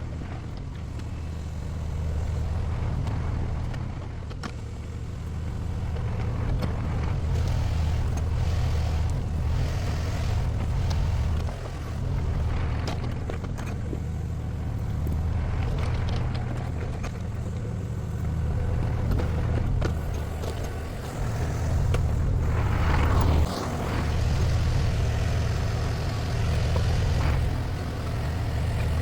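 Mini excavator's diesel engine running under working load, its hum rising and falling as it works, with scattered knocks and a louder noisy crunch about 23 seconds in.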